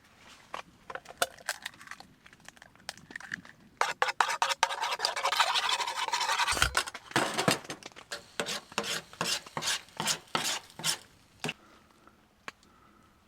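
Cooking utensils clinking and scraping against cookware: scattered clicks, a dense scraping rush with a thump in the middle, then a run of quick, evenly spaced taps, about three a second, that stops near the end.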